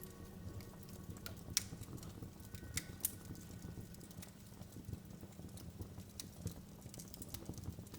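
Wood fire crackling in a fireplace: irregular sharp pops and snaps over a low rumble of the flames, with the loudest pops about a second and a half in and around three seconds in.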